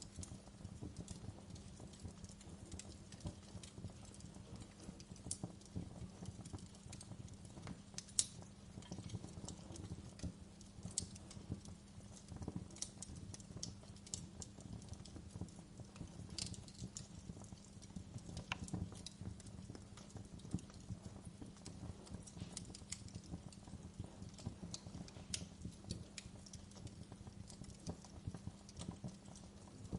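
Wood fire burning in a fireplace, crackling and popping at irregular moments over a low steady rumble, with one sharper pop about eight seconds in.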